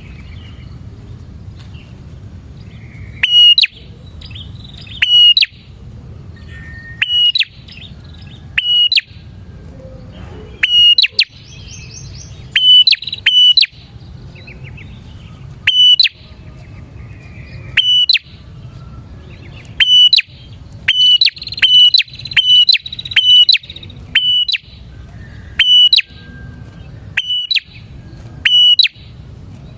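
Prenjak (prinia) calling vigorously: a loud, sharp, high chirp repeated every second or two, with a quicker run of calls a little past the middle. It is a steady low hum underneath throughout.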